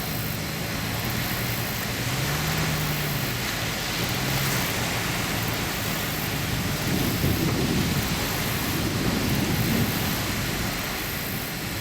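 Large diesel engine running with a low steady hum under a constant rushing noise, the rumble growing heavier from about seven seconds in.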